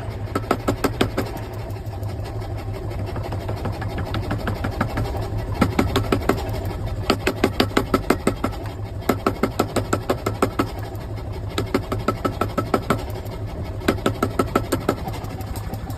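Rapid runs of hammer blows on hot steel, several a second with short pauses between runs, as the axe blank is forged out, over a steady low machine hum.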